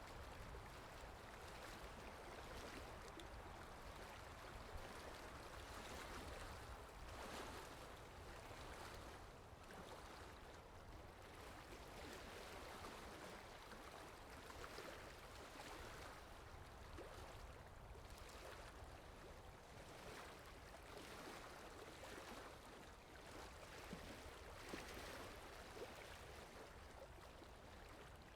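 Running water of a river or waterfall: a faint, steady rushing wash that swells and eases slightly.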